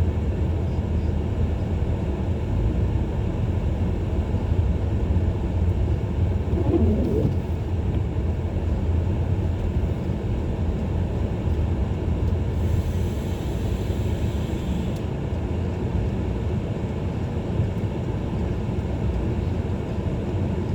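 Steady low rumble of a car driving on a snowy road, heard from inside the cabin. A brief hiss comes about twelve seconds in and lasts a couple of seconds.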